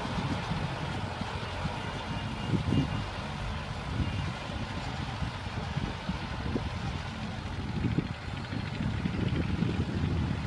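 Tractor engine running steadily, with a few brief louder low bumps.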